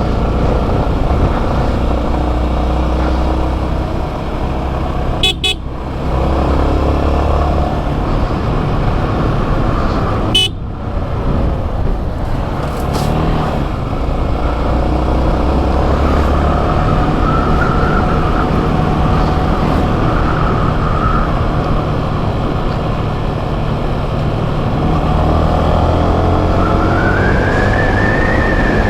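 Motorcycle engine running while riding, with road noise and steady engine hum. Near the end a high tone rises and then holds.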